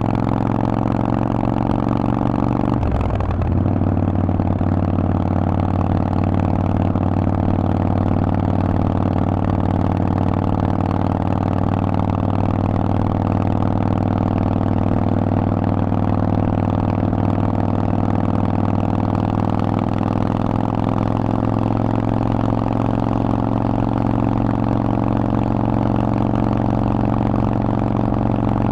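Harley-Davidson Forty-Eight's air-cooled V-twin running steadily through a Vance & Hines aftermarket exhaust, with a brief break in the engine note about three seconds in.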